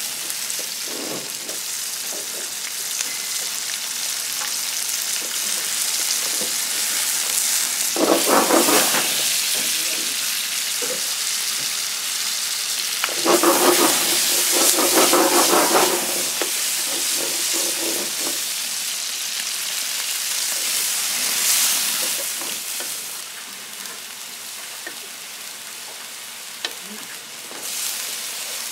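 Food frying with a steady sizzle, with two louder stretches of stirring in the pan, about 8 seconds in and from about 13 to 16 seconds. The sizzle dies down somewhat a few seconds before the end.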